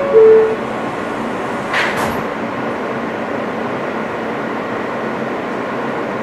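An R160 subway car's two-note door chime sounds at the start, the second note lower, followed about two seconds in by a brief sharp hiss and knock as the doors shut. After that comes the car's steady, even running noise.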